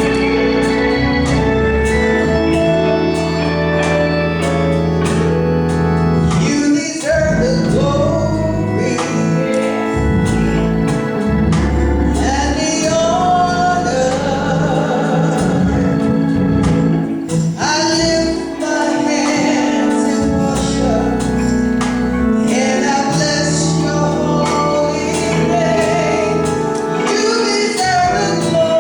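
Gospel music: organ and band over a steady beat, with voices singing that come in about seven seconds in.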